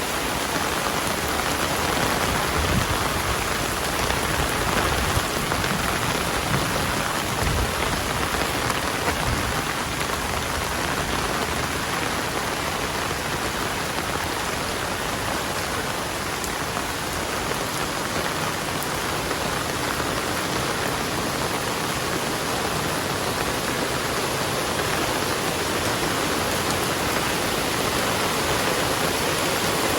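Heavy rain falling steadily, an even hiss of drops on surfaces with no break.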